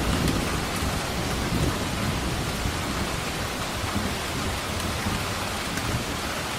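Steady heavy rain falling, with the tail of a thunder rumble dying away in the first second.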